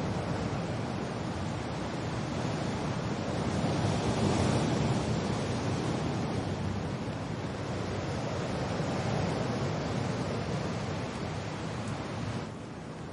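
Steady wind and rain noise, swelling about four seconds in and dropping suddenly in level just before the end.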